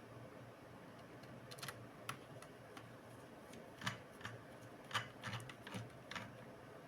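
Light, irregular clicks and taps of small hard parts being handled during laptop repair work. The two loudest come about four and five seconds in, over a faint steady hum.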